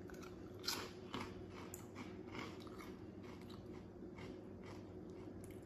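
Faint chewing with a few short, sharp crunches, the clearest about a second in and smaller ones after, over a low steady hum.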